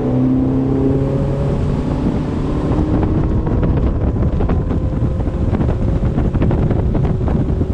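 60 hp four-stroke outboard motor on a bass boat accelerating, its pitch rising in the first second, then running steadily at speed, with wind buffeting the microphone.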